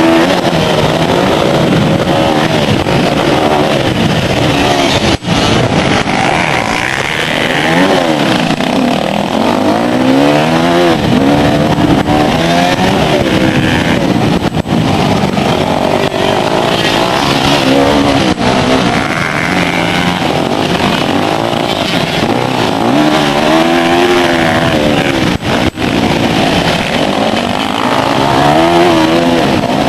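Motocross bike engines running hard, their pitch repeatedly rising with the throttle and dropping off, with more than one bike heard at times. The sound cuts out for an instant twice.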